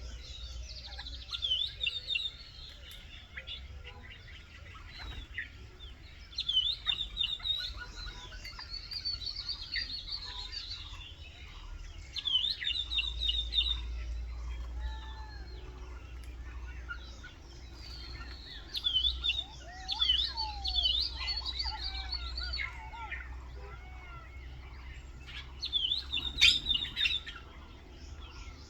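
Several wild birds chirping and singing, with loud bursts of rapid high chirps every few seconds and softer, lower whistled calls between them. A low steady rumble runs underneath.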